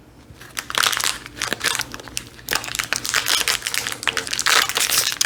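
Plastic snack wrapper of a pack of chocolate bourbon biscuits crinkling as it is handled and opened: irregular crackles starting about half a second in and going on in bursts.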